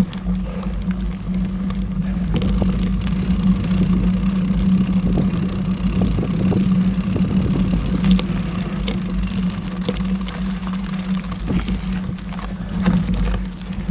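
Mountain bike rolling along a dirt trail: a steady rumble and hum of tyres and riding noise, with scattered clicks and rattles from the bike.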